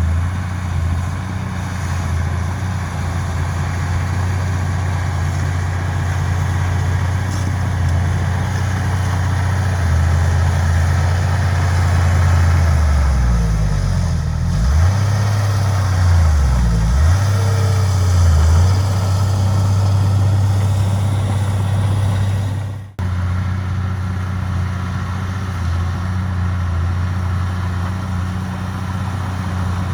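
Heavy diesel engine of earthmoving machinery running steadily. Its pitch dips and climbs back several times about halfway through, as the engine is loaded and revved. The sound cuts out for an instant about two-thirds of the way in.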